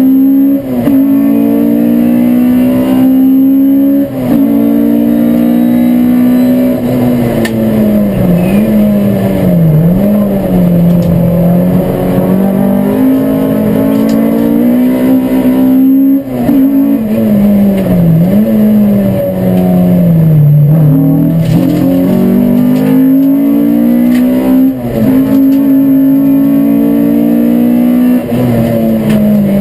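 Race car engine heard from inside the cabin at racing speed, its note climbing under acceleration and sagging when braking for corners. Several brief breaks in the sound mark the gear changes.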